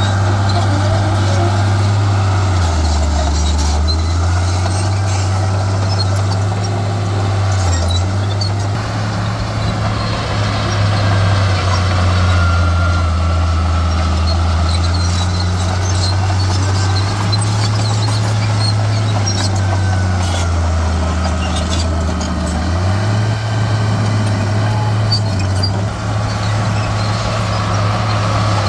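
Heavy diesel earthmoving machinery running, its engine note stepping up and down every few seconds as it works, with scattered knocks and clanks.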